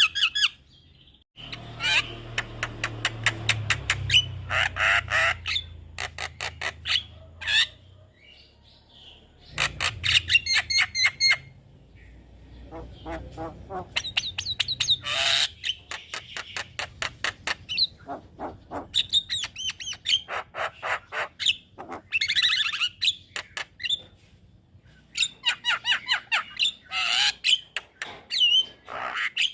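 Javan myna (jalak kebo) singing: rapid runs of harsh, clicking chatter mixed with squawks and short whistles, in bursts of a second or more with brief pauses between them.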